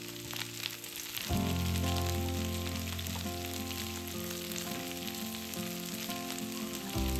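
Food frying in a pan, sizzling and crackling steadily, with background music playing over it. The music changes chord about a second in and again near the end.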